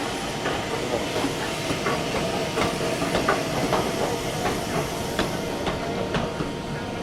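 Steam train running close by: a steady hiss of steam, with many irregular clicks and knocks from the wheels and carriages on the track.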